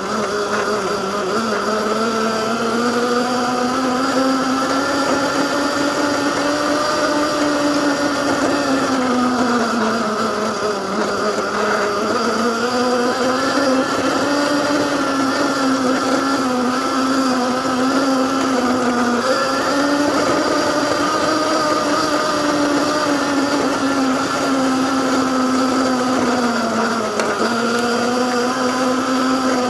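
QLife E8 electric dirt bike's mid-drive motor whining while being ridden, its pitch rising and falling with speed and dipping twice as it slows.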